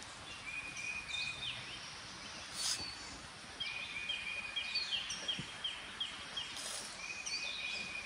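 Several songbirds singing: thin held whistles and slurred notes, with a run of quick repeated chirps, about five a second, through the middle. One soft tap about a third of the way in.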